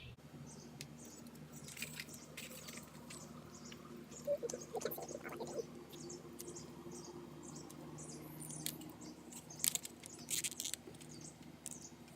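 Small birds chirping here and there over a faint, steady low hum, with a short noisy burst about ten seconds in.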